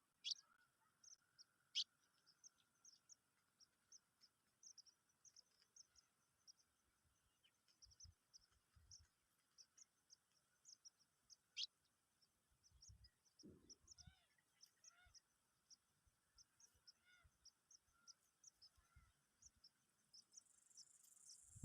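Small birds chirping faintly: many short, high chirps repeated throughout, with a few louder, sharper calls near the start and about halfway through.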